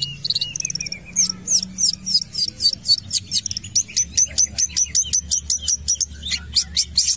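Long-tailed shrike (cendet) singing hard: a long run of short, sharp, high chirping notes, about three a second, coming faster near the end.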